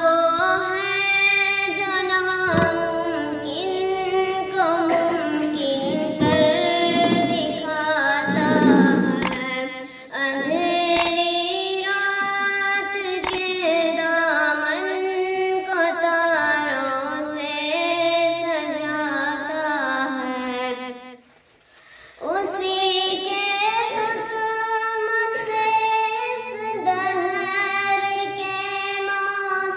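A high solo voice singing an Urdu hamd, a devotional song in praise of God, in long held and ornamented notes. The voice breaks off briefly about 21 seconds in, then carries on.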